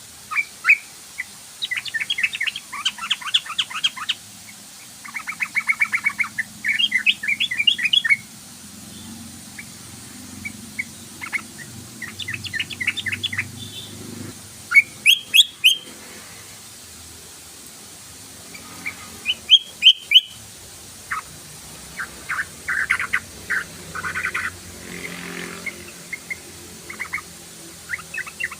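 Yellow-vented bulbul calling: short, bubbly, rapid chattering phrases, repeated again and again with pauses of a second or more between them.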